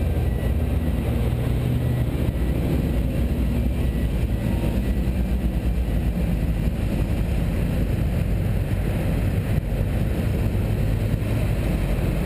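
A car engine running steadily while the car drives, a low hum at an even pitch over road noise.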